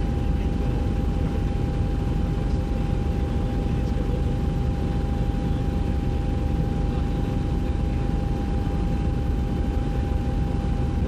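Helicopter engine and rotor noise heard on board: a steady, unbroken drone with a constant high whine running through it.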